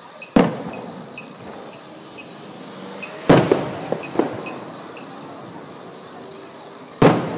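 Aerial fireworks shells bursting: a sharp boom about half a second in, a quick cluster of three or four bangs around three to four seconds in, and another boom near the end, each trailing off in a rolling echo.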